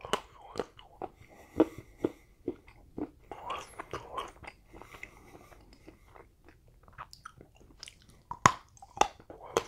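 Chocolate bar being bitten and chewed close to the microphone: sharp snaps as pieces break off, with crunching chewing between. The loudest bites come about a second and a half in and again near the end.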